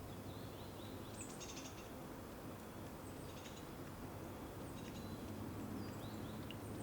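Small birds chirping and trilling now and then, faint and high-pitched, over a steady low background rumble.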